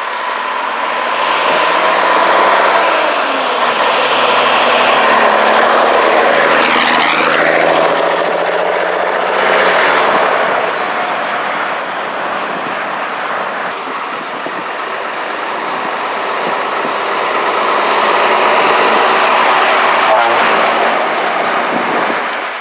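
Vintage Scania trucks driving past, their engines running; the noise swells and falls twice as they go by.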